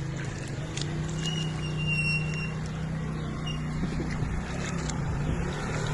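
A motor vehicle's engine running with a steady low hum over a constant hiss, with a few brief high chirps about a second in.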